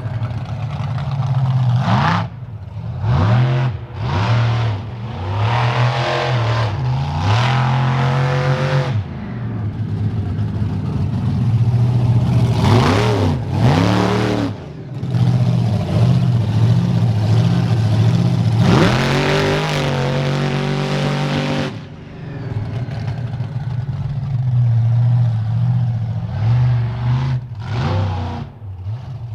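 Bigfoot 18 monster truck's engine being driven hard, revving up and falling back several times, with steadier running between the revs.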